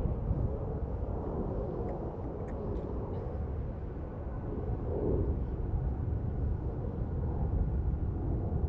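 Low, steady rumble of an Airbus A220-300's Pratt & Whitney PW1500G turbofan engines as the jet lands, swelling a little about halfway through.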